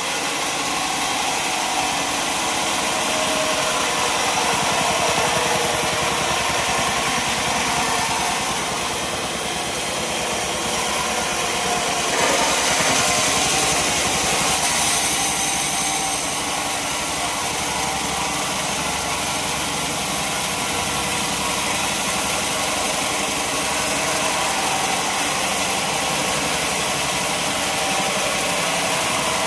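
Sawmill machinery with its engine running steadily, louder for a few seconds about halfway through.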